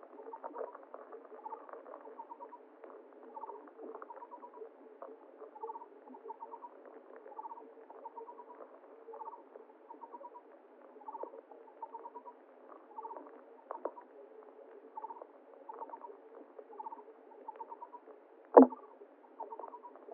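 Muffled stream ambience: a short chirping animal call repeats about once a second over soft water noise and scattered faint clicks. One sharp knock sounds near the end.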